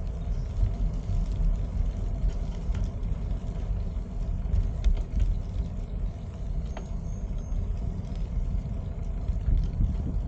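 Wind buffeting the microphone while riding a bicycle, heard as a steady low rumble with a few light clicks.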